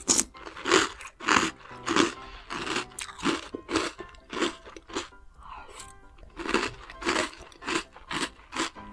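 Close-up crunching and chewing of chocolate cereal balls mixed into yogurt, about one to two crunchy chews a second with a brief pause near the middle. Soft background music plays underneath.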